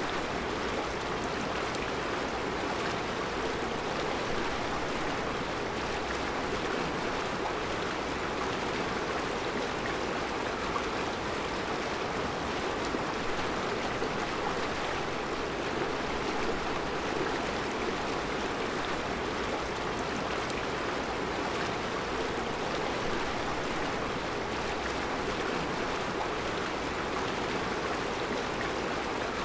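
Mountain river flowing steadily over round rocks in a rocky riverbed: an even, unbroken rush of water.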